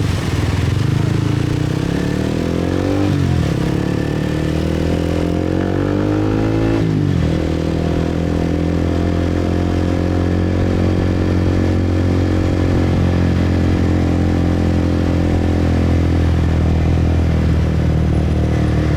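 Motorbike engine heard from the rider's seat, pulling away: its pitch climbs and drops sharply twice as it shifts up through the gears, then holds steady at cruising speed.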